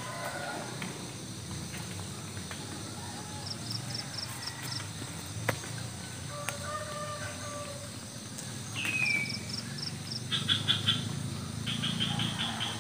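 Village morning outdoor ambience with several birds calling: two runs of quick, high, evenly spaced pips, a single falling whistle about two-thirds of the way in, and rapid chattering notes near the end, over a steady low rumble. A single sharp click sounds about halfway through.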